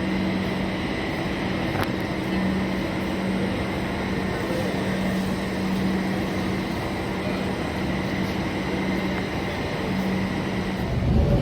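Kolkata Metro train running steadily, heard from inside the carriage: a constant rumble with a steady low hum and a thin high whine.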